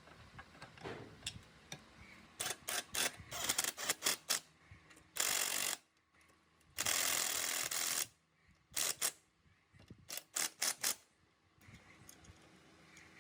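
Workshop work on metal parts: a run of sharp clicks and knocks from tools and parts being handled, some in quick clusters. There are two bursts of hiss, a short one about five seconds in and a longer one of over a second right after.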